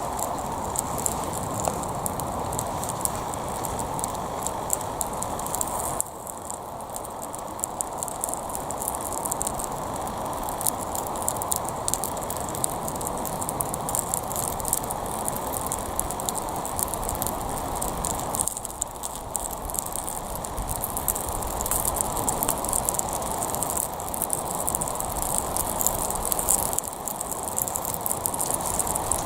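Gas torch flame hissing steadily, dotted with many small crackling clicks, as it burns a plastic Lego truck. The level steps down abruptly about 6, 18 and 27 seconds in.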